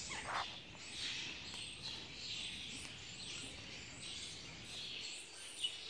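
Small birds chirping over and over: short, high, falling chirps about twice a second.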